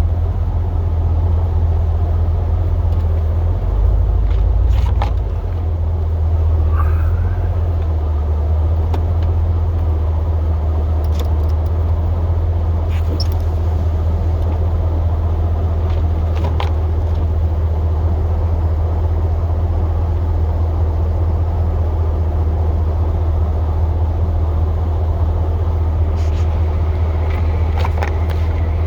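Snowplow pickup truck running with a steady low drone, with a brief swell about four seconds in and a few sharp knocks and clicks scattered through it.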